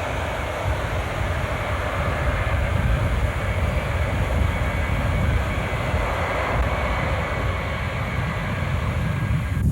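Jet aircraft engines running steadily, a roar with a faint high whine, cut off abruptly near the end.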